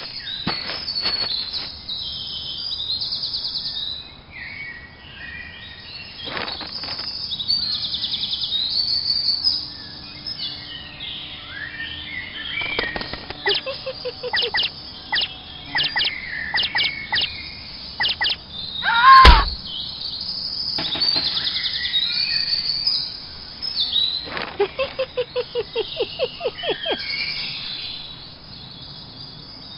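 Small birds chirping and tweeting over and over, with quick trilling runs, and one loud thump about two-thirds of the way through.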